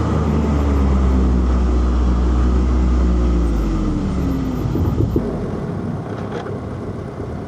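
Inline-four car engine running with its note falling slowly as the car slows, then dropping away about four seconds in. A couple of short knocks come around five seconds, and the engine then runs quieter, settling toward idle.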